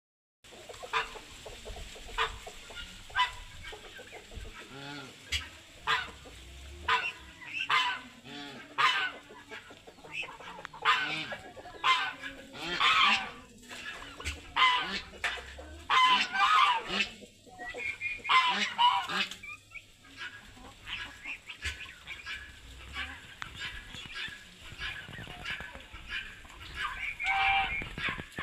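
Farmyard poultry calling: many short, harsh squawks and clucks in quick succession, the loudest run in the middle stretch.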